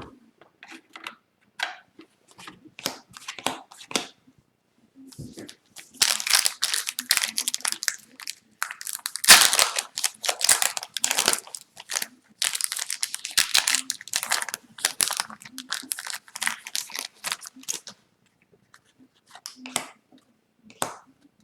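Foil wrapper of an Upper Deck hockey card pack crinkling and tearing open, with a long stretch of dense crinkling in the middle. Trading cards click and slide against each other before and after it.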